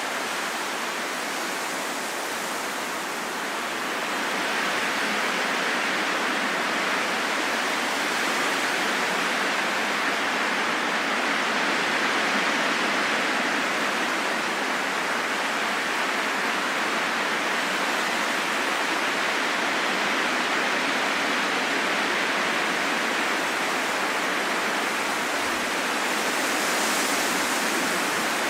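Steady rushing wind with no tones or gusting howl, swelling slightly louder about four seconds in.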